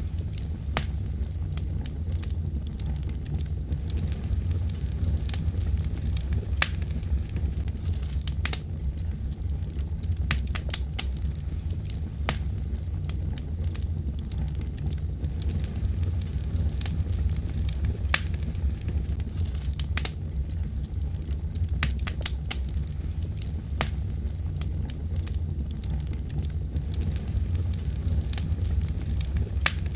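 Wood fire burning with a steady low rumble and irregular sharp crackles and pops from the burning wood, a few each second.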